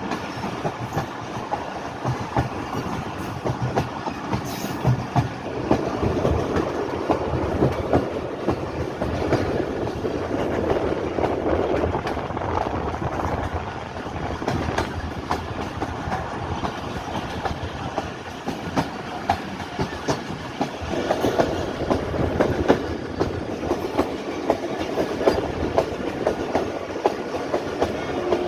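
Passenger train running along the track, its wheels clacking steadily over the rail joints amid a continuous rumble of the rolling coaches.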